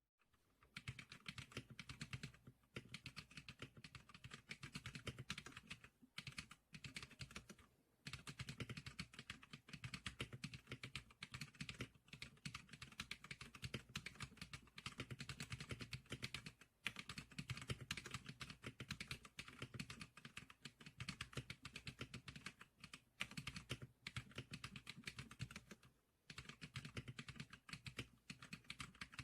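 Fast, continuous typing on a Zclicker SPK100 keyboard, a dense run of key clicks broken by a few short pauses.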